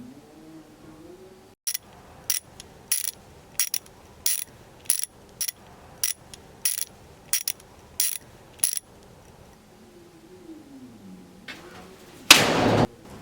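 A mechanism clicking sharply and evenly, about a dozen metallic clicks a little over one a second, which then stop. Near the end comes a brief loud rush of noise.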